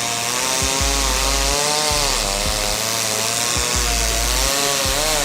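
Chainsaw running as it cuts into a tree, its engine pitch wavering and dipping under load about two seconds in and again near the end.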